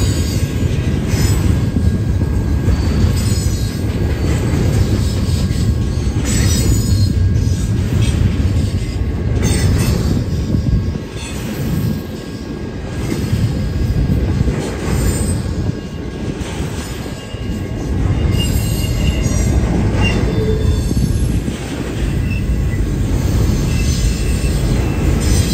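Double-stack intermodal freight train rolling past close by: a loud, steady rumble of well cars on the rails, broken by repeated clanks and, in the latter part, brief high wheel squeals.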